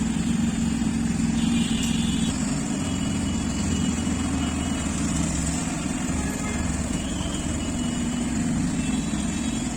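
Road traffic with a motor vehicle engine running steadily, a continuous low hum.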